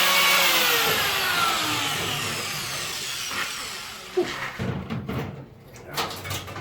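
Angle grinder with a flap disc spinning down after being switched off, its whine falling steadily in pitch and fading over about four seconds. A few knocks and clatter follow near the end.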